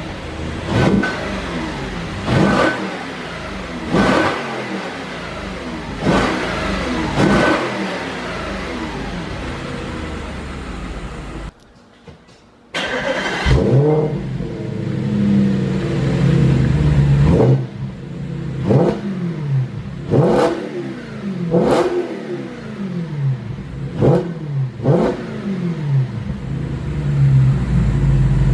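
2013 Audi RS5's 4.2-litre V8, warmed up, running through an AWE Tuning Track Edition exhaust, idling and blipped again and again: about a dozen quick revs that rise and fall straight back to idle. The sound drops almost to nothing for about a second near the middle.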